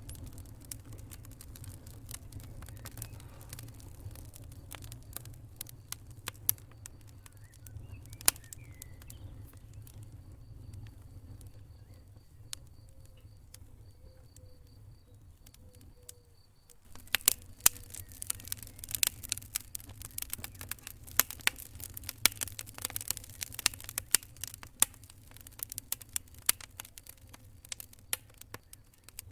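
Wood fire crackling and popping over a low, steady rumble of flame. The pops thin out partway through, then come thicker and louder for the last dozen seconds.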